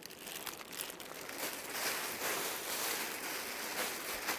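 Dresses being handled and shifted, an irregular rustling and crinkling of the garments and their packing.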